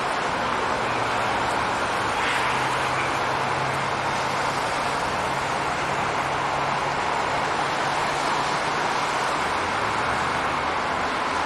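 Steady road noise from highway traffic, an even rushing hiss with a faint low hum.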